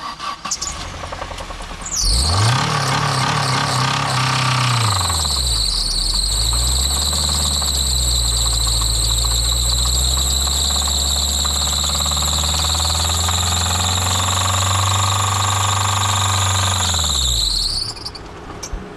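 Saturn car engine cranked by its starter, catching about two seconds in and revving hard at wide-open throttle with laundry detergent in place of its engine oil. It bogs down a few seconds later, revs back up and runs flat out under a steady high-pitched squeal, then dies near the end. Afterwards the engine barely turns over, which the owner takes for a spun bearing.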